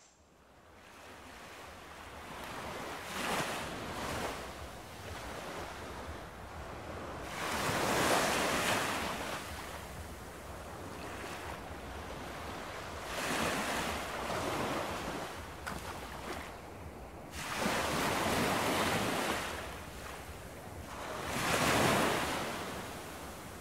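Ocean surf: waves breaking and washing up a beach, swelling and fading about five times, one every four to five seconds.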